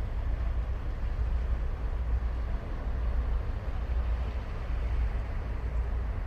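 Ocean surf on a beach: a steady rushing wash of waves with a deep low rumble.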